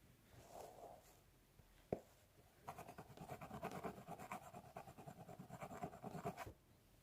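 Fingernails scratching through hair on a scalp: a few soft rubs and a single sharp tap, then a run of fast, dense scratching strokes for about four seconds that stops suddenly.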